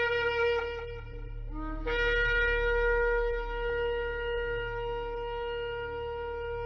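Shofar blowing: one blast cuts off just under a second in, a short lower note slides upward, then a long steady blast is held to the end.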